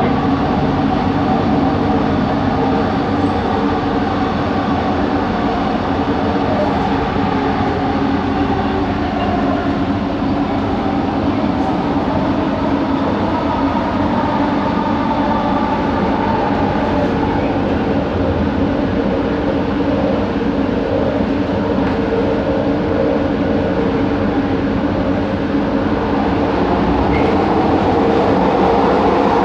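Bombardier Innovia ART 200 metro train running at speed: a steady rumble of the ride with a hum of several steady tones from its linear induction motor, which drifts slightly in pitch midway. The motor sound is an odd one that the rider calls a weird motor noise.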